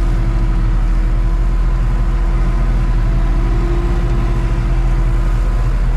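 Tractor engine running steadily under load, driving a PTO-driven topper through grass and rushes: an even low drone with a constant hum above it.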